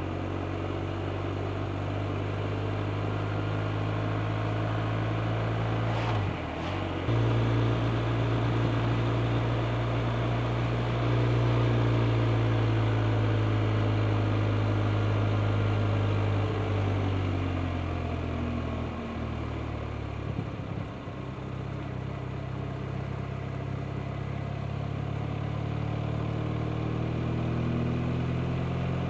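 BMW R 1250 RT's 1254 cc boxer-twin engine running while riding, with wind noise. A short break about six seconds in, as in a gear change; the engine note falls past the middle as the bike eases off, then climbs again near the end.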